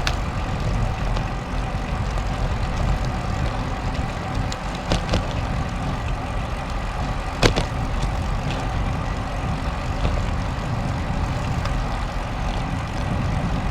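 Steady low rumble of wind and tyre noise on a GoPro riding along on a road bike, with a few sharp clicks.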